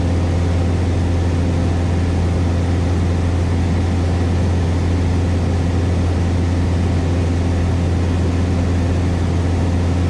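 Cessna 172S Skyhawk's four-cylinder Lycoming engine and propeller running steadily in cruise, a constant low drone heard inside the cabin.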